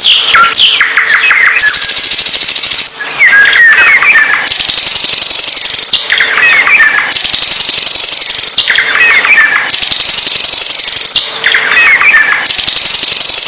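A songbird singing the same phrase over and over, about five times, once every two and a half seconds or so. Each phrase is a high, buzzy trill followed by a short, quick chattering warble lower in pitch.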